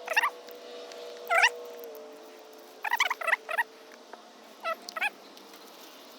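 Short, high-pitched animal calls in four brief clusters a second or two apart, over a faint steady hum.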